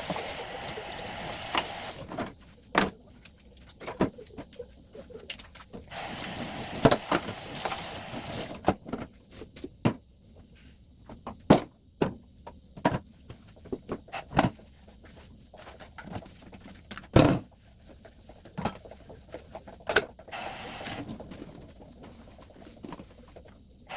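Household cleaning: water running in two short spells, with scattered sharp knocks and clatters of objects being handled and set down between them.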